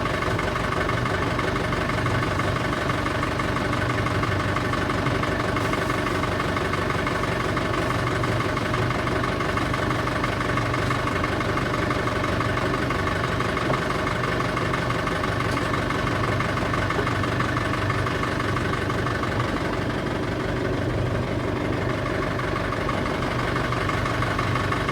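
A sailing boat's engine running steadily at a constant speed, with an even drone.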